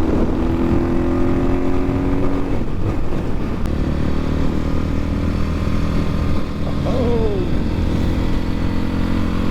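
Templar X 250 dirt bike's single-cylinder four-stroke engine running steadily at cruising speed, with a few brief glides in pitch about seven seconds in.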